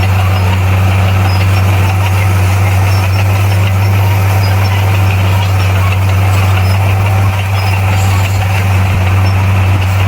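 Heavy earthmoving equipment's diesel engine running steadily: a loud, deep, unbroken drone.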